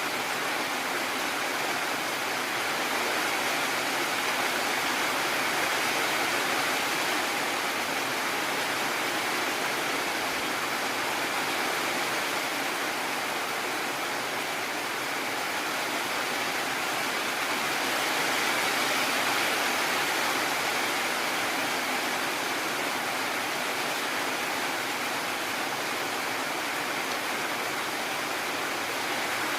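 Heavy rain falling steadily, an even dense hiss that swells slightly now and then.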